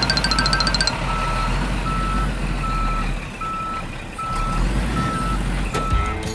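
A truck's reversing alarm beeping steadily, one beep about every 0.8 seconds, over a low engine rumble. A quicker run of beeps overlaps the first second.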